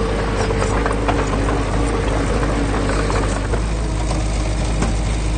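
Diesel engine of heavy earthmoving machinery running steadily, with a few light clicks over it.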